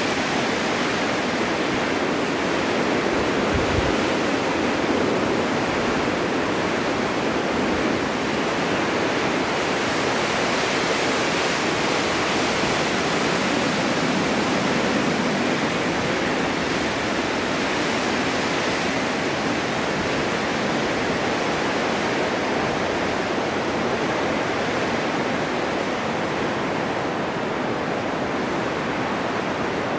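Strong winter wind blowing steadily through a forest, a dense rushing noise that swells and eases slowly.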